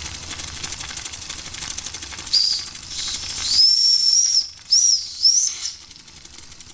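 Weeden 645 toy live-steam traction engine running with fast, light chuffing and hissing steam, then a high steam whistle sounding about four times, starting about two seconds in, the longest lasting about a second.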